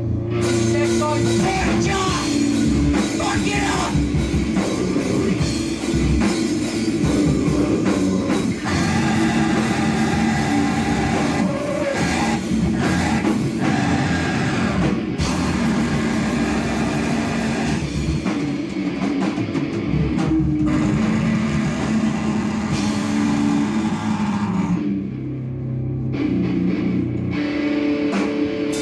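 Loud live band playing noise rock: distorted electric guitar and drum kit, with held notes and dense noisy texture. It thins out briefly near the end.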